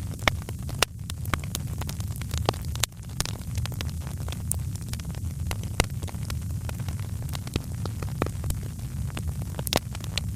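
Wood fire crackling and popping in a fireplace: irregular sharp crackles over a steady low rumble of the flames.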